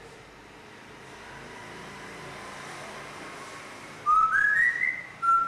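Gray parrot whistling: a faint held note, then three short notes stepping up in pitch in quick succession, and one short lower note near the end.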